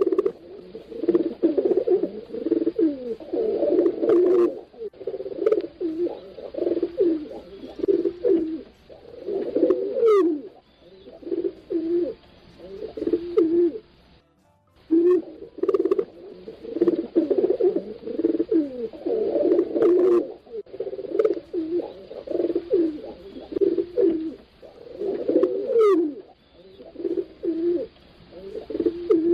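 Pigeons cooing: overlapping low, throaty coos in a steady chorus, with a brief break about halfway. The same stretch of cooing repeats after about fifteen seconds, as in a looped recording.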